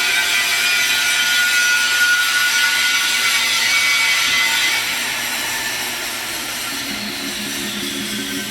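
Stick-welding arc on a pipe joint with a 7018 electrode, giving a steady hiss that eases slightly after about five seconds.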